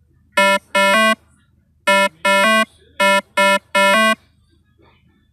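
A short, buzzy electronic jingle: seven clipped notes in three rhythmic groups, some of the longer notes stepping up in pitch partway through.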